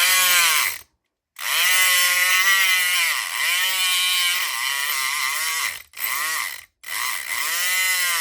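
Southord E500XT 4.5-volt electric pick gun running in four bursts as its trigger is pulled and released. The motor's buzz dips in pitch and recovers as the vibrating pick works against the lock's pins.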